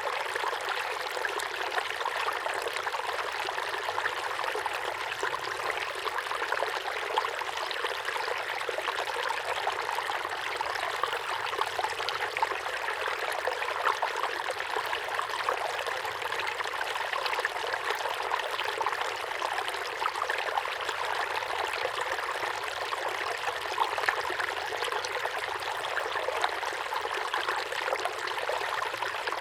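Small waterfall pouring into a pond: a steady splashing and trickling rush with fine splash ticks and little low rumble.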